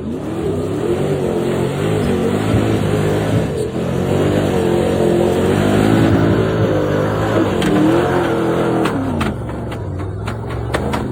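Off-road truck's engine revving hard, its pitch rising and falling again and again as the driver works the throttle, easing to a steadier note near the end with a few sharp knocks.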